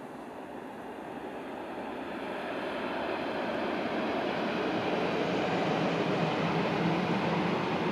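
Shinkansen high-speed train passing on an elevated viaduct: a steady rushing roar of wheels and air that grows louder as the train approaches and holds at its loudest over the last few seconds.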